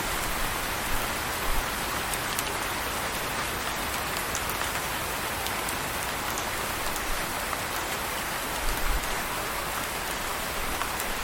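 Steady rain falling, an even hiss with a few faint drop ticks, and a brief low rumble about nine seconds in.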